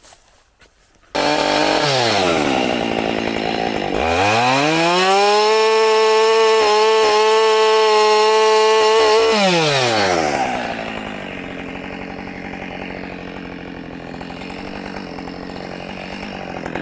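Husqvarna 572 XP two-stroke chainsaw: it comes in suddenly about a second in with its revs falling, is then throttled up sharply to a high, steady scream held for about five seconds with a few brief dips, and drops back to idle.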